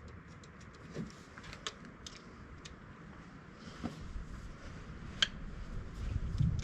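Light scattered clicks and ticks with a few sharper knocks from handling heavy battery cable and tools on the truck, and a low rumble building in the second half.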